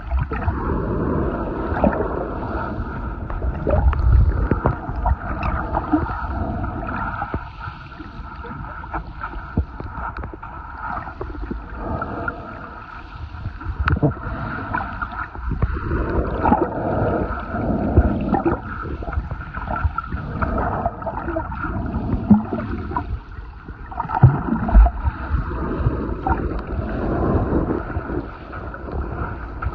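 Muffled underwater sound of shallow sea water sloshing and gurgling around a submerged camera, with a few sharp knocks.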